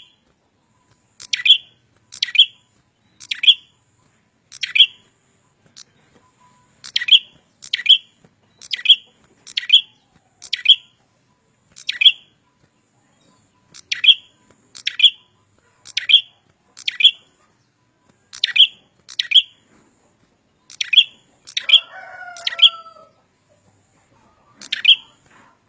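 A prinia (prenjak or ciblek) repeating short, sharp, high chirps, roughly one a second and often in pairs, each a quick downward flick. About 22 seconds in, a lower, gliding call overlaps briefly.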